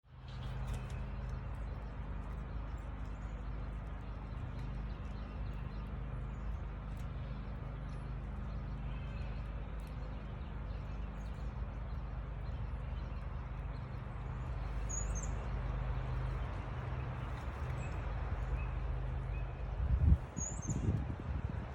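Steady low hum and hiss, with a few brief high bird chirps at a feeder. A series of loud knocks comes near the end.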